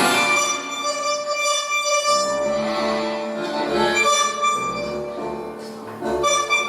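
Recorded tango music: a bandoneon-like reed instrument and violins play sustained melody notes over a bass line that drops out for a moment about a second in and comes back.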